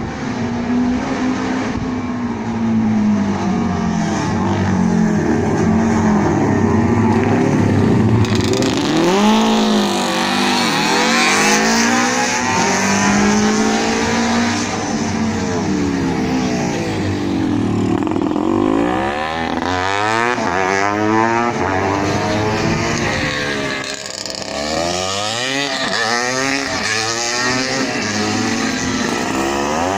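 Classic racing motorcycles passing one after another at speed, their engine notes rising and then dropping in pitch as each goes by, over a steady drone of other bikes on the circuit.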